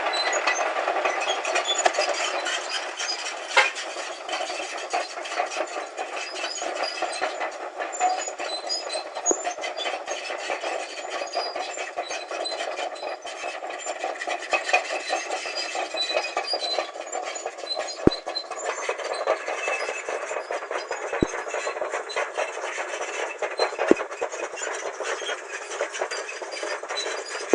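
Caterpillar D8N crawler bulldozer working: its diesel engine running under the continuous clatter of steel tracks, with many short metallic clicks and a few sharper knocks.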